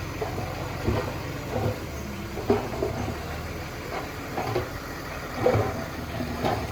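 A heavy-equipment diesel engine running steadily, with short knocks and clanks breaking in every second or so. The loudest come about two and a half and five and a half seconds in.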